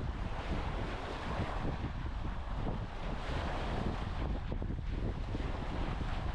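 Wind buffeting the microphone, with small waves washing on a sandy beach underneath.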